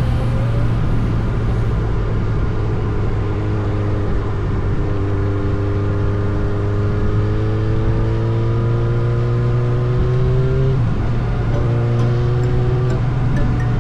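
Yamaha R6's inline-four engine pulling steadily under way, its pitch slowly climbing. It dips abruptly, as on a gear change, a little before the last three seconds, then climbs again.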